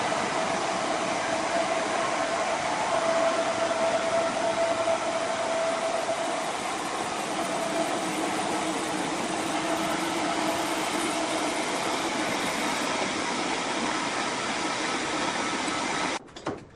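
Sawmill saw machinery running: a steady, loud rushing noise with a faint held whine, which cuts off abruptly near the end.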